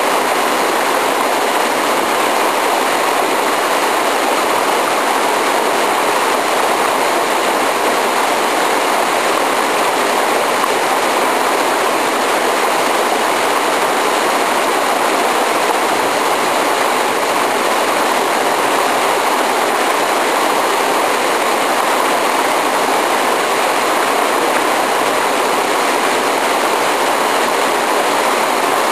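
Waterfall, water pouring and crashing into its pool in a loud, steady, unbroken rush.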